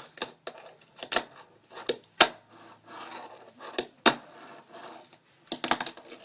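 Irregular sharp clicks and knocks, about a dozen, with a cluster near the end: a fingerboard with metal trucks being handled and tapped on a hard surface.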